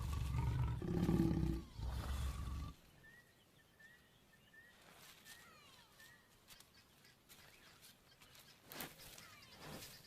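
Lions growling loud and low during mating, cut off abruptly about two and a half seconds in. Faint high chirps of small birds follow over a quiet background.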